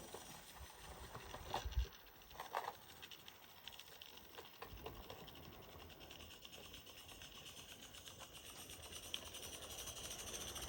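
Faint steady hiss with a few soft clicks from a Roundhouse Lilla, a small gas-fired 16mm-scale live-steam garden-railway locomotive running on its track with the regulator closed. The hiss slowly grows louder toward the end.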